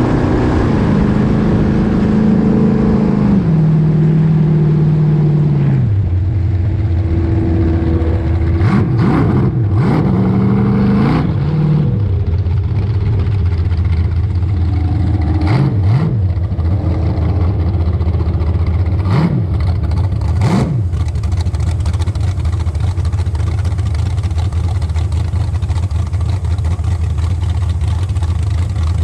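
A large engine slowing in three steps over the first six seconds, then running steadily at low revs, with a few short sharp clicks between about nine and twenty-one seconds.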